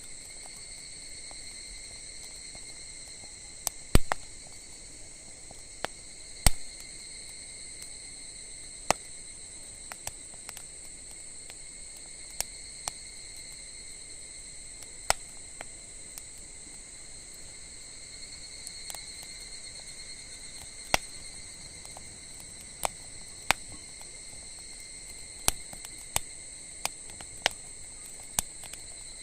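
Wood fire crackling, with irregular sharp pops, the loudest about four and six and a half seconds in, over a steady high drone of insects.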